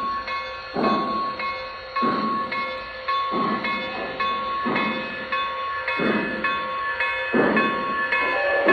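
Lionel Visionline Hudson O-gauge model steam locomotive running, its onboard sound system playing slow steam-exhaust chuffs about every second and a quarter over a steady whine.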